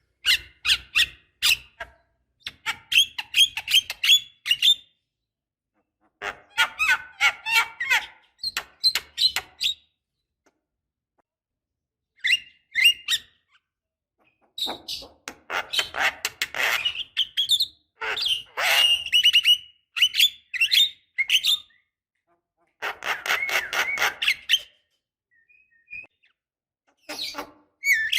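Javan myna singing: phrases of rapid chattering notes a few seconds long, separated by short pauses.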